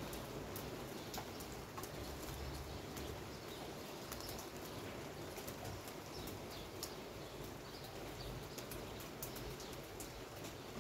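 Steady rain, with scattered drips ticking close by.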